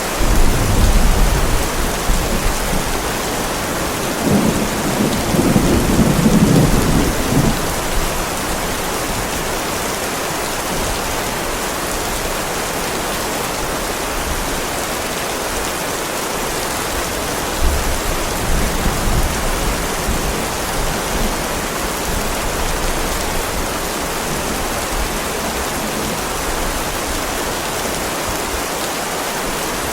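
Heavy rain falling steadily on a driveway, with thunder rumbling low right at the start and again a few seconds in, and a fainter rumble near the middle.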